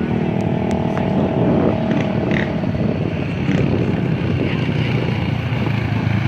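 Dirt bike engines running on the track: a steady engine note holds for about three seconds and then drops away, over the continuing din of other bikes.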